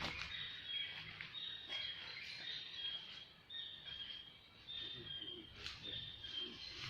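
Repeated high two-note chirps, a higher note then a slightly lower one, about one pair a second, with a few faint clicks and rustles.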